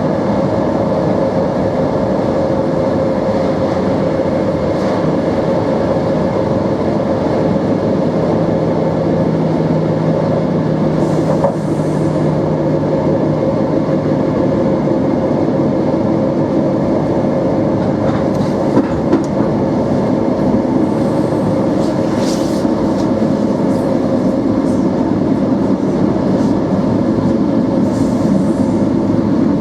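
NMBS/SNCB AM80 'Break' multiple unit running, its motors giving a steady hum with several held tones. Several short, sharp clicks and rattles occur over it, along with the clickety-clack of the wheels.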